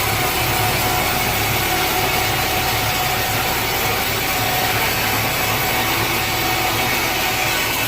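Sawmill machinery running steadily: an engine-driven saw with a constant whine over its engine.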